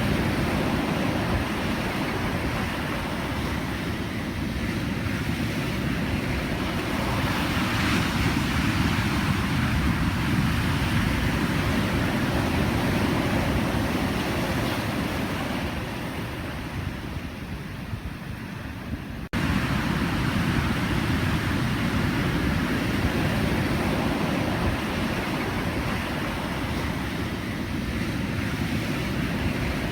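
Pacific Ocean surf: a continuous, deep rush of breaking waves. About two-thirds of the way through, it eases off and then cuts abruptly back in at full strength.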